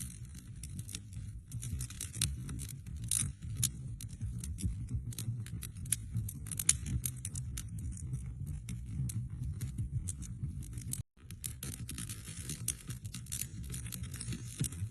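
Wood fire in a fireplace crackling: many sharp, irregular pops and snaps over the low, steady rumble of the flames. The sound cuts out for a split second about eleven seconds in, then resumes.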